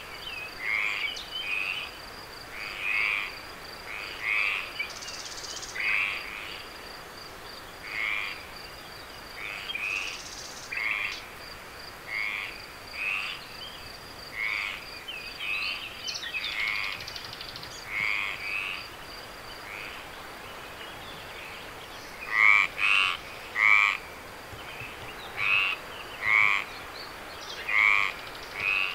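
Frogs calling: short pulsed croaks repeated about once a second, the loudest a little after the middle. Under them runs a steady high trill, typical of crickets.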